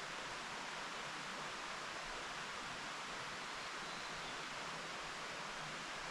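A mountain stream babbling steadily.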